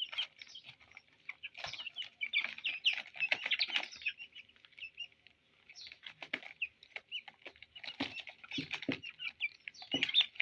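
Young chicks peeping in many short, high cheeps that overlap throughout, with light taps scattered among them.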